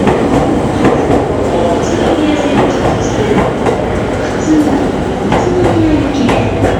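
E231-series electric commuter train running out of the station, its wheels clattering over rail joints with a steady rumble and a few brief gliding squeals.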